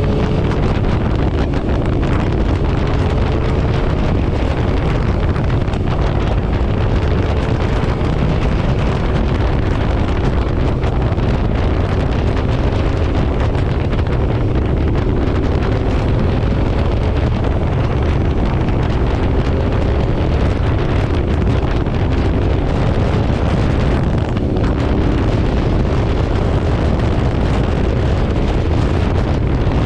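Motorcycle riding at road speed: heavy wind buffeting on the microphone, with the engine's hum underneath, its pitch drifting gently up and down.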